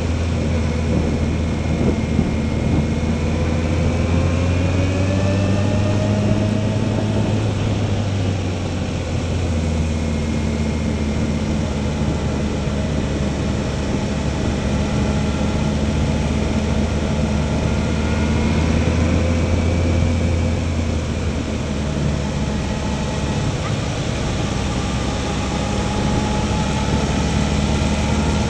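Motorcycle engine running at moderate road speed, its note slowly rising and falling with the throttle through the bends and shifting a third of the way in and again later, over steady wind and tyre noise.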